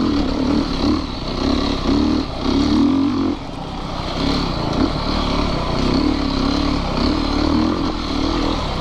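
Yamaha YZ450FX's 450 cc single-cylinder four-stroke engine running under changing throttle on a trail ride, its note rising and falling, easing off briefly about three and a half seconds in.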